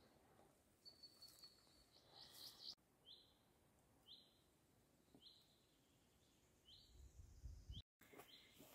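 Faint bird calls in the forest: after a few thin high notes, a bird repeats a short falling call about once a second. A brief low rumble from wind or handling comes near the end.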